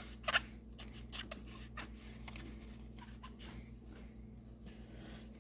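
Hand scrubbing and scraping on the plastic of a Stihl BR600 backpack blower, done with a rag, brush or scraper. A few sharp scratchy strokes come in the first half-second, then lighter, scattered strokes follow.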